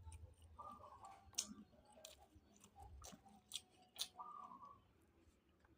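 Faint chewing as a person eats grouper, with scattered wet mouth smacks and clicks.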